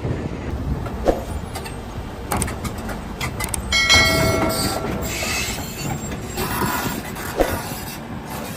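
Heavy vehicle running with a low rumble and scattered sharp knocks. About four seconds in there is a brief high, steady tone, the loudest moment.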